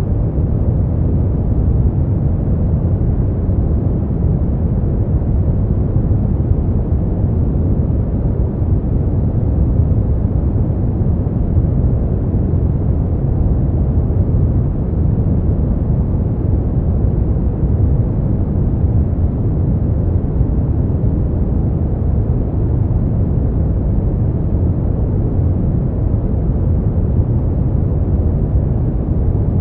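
Steady, unchanging synthetic noise for sleep, deep and muffled rather than hissy: most of it sits low, like a constant rumble, with little treble.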